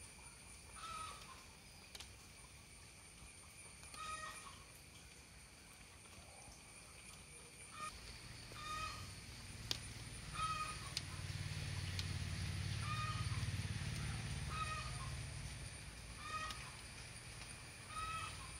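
A bird calling over and over, one short note roughly every second and a half. A steady high-pitched whine runs underneath, and a low rumble swells up through the middle and fades.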